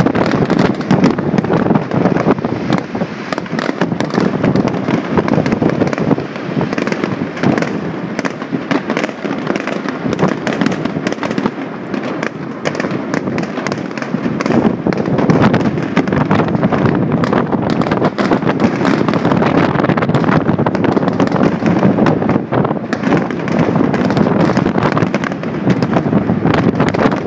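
Fireworks display: a dense, continuous barrage of bursts and crackling that eases a little through the middle, then builds again.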